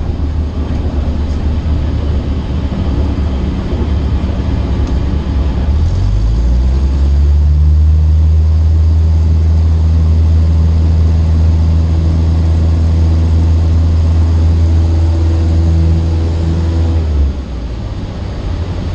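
Cessna 152's four-cylinder Lycoming piston engine and propeller droning in the cabin, picking up in pitch and loudness about six seconds in as power is added, then dropping back suddenly near the end as power is reduced.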